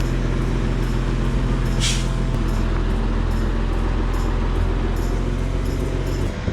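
Crane's engine running steadily under load while lifting a boat, with a short hiss about two seconds in. The engine note drops away suddenly near the end.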